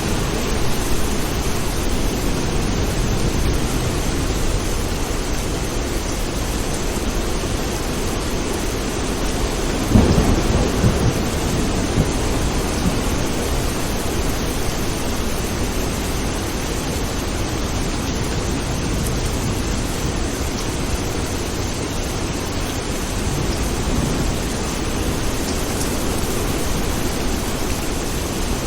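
Steady heavy rain with continuous low thunder rumbling. About a third of the way in comes a sharp crack of thunder, followed by a couple of smaller crackles.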